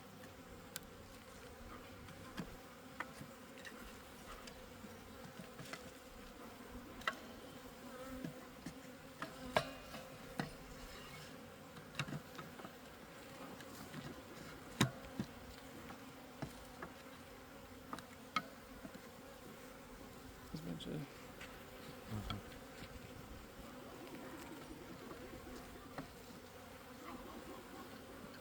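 Honeybees buzzing in a steady hum around an opened hive, with scattered short clicks and knocks throughout.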